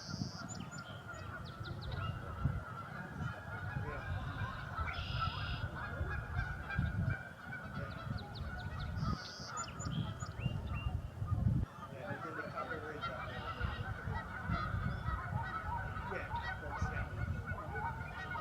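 A large flock of wild geese honking, a dense chorus of many overlapping calls that never lets up.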